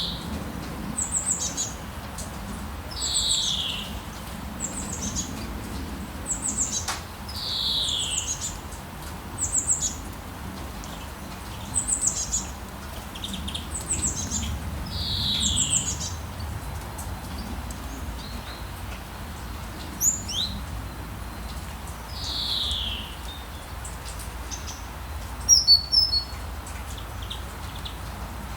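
Songbirds singing over a steady hiss of rain with a low town rumble. One bird repeats a short downward-sliding whistled note every few seconds, with quicker high chirps in between, and a sharp cluster of chirps comes near the end.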